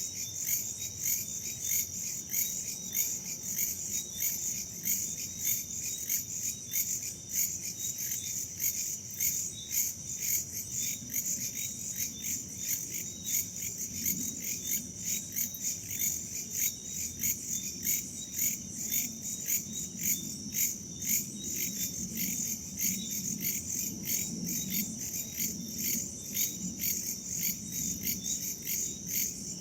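A night chorus of crickets and other insects chirping in a steady, fast, even pulse. Underneath it runs a low rumble of wind that swells now and then in the second half.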